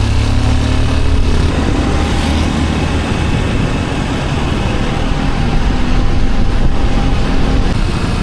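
Motorcycle running on the road: a steady engine drone mixed with wind and road noise, with the engine pitch drifting slightly.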